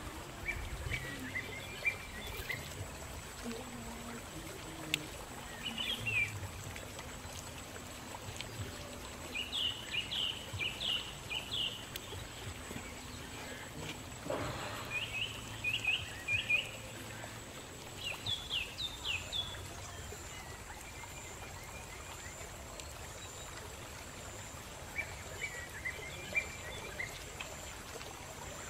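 Small birds chirping in short bursts of quick descending notes, several times, over a faint steady high whine. A single soft knock comes about halfway through.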